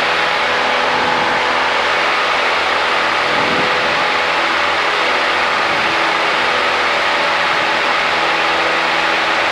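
Cessna 172's piston engine and propeller running steadily at climb power, a constant drone with an even hum under it.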